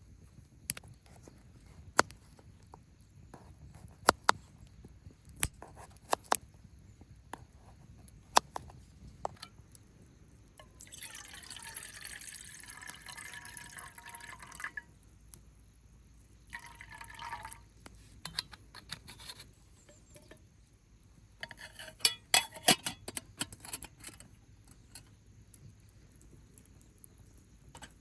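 Liquid poured into a cup, the pitch rising as it fills, followed by a shorter second pour. Sharp clicks and taps are scattered around it, with a loud cluster of them after the pours.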